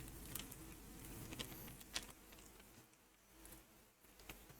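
Near silence: room tone with a few faint clicks in the first two seconds.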